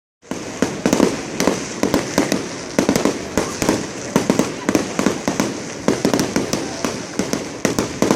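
Fireworks going off in a dense, rapid run of bangs and crackles, several a second without let-up, starting abruptly just after the beginning.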